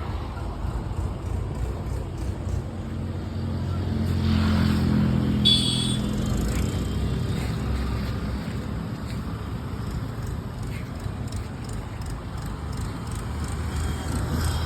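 Bajaj Pulsar 220 motorcycle's single-cylinder engine running, getting louder about four seconds in and easing off again after about six. A brief high-pitched chirp sounds at its loudest point.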